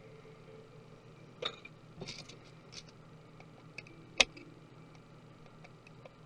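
Small, sparse clicks and taps of hand tools and small parts being handled while taking apart a MacBook Pro laptop, with one sharp click about four seconds in.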